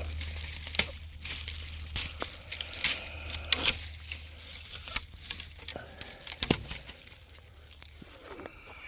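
Dry leaves and twigs crackling and rustling with irregular sharp snaps as someone picks through brush looking for a stick.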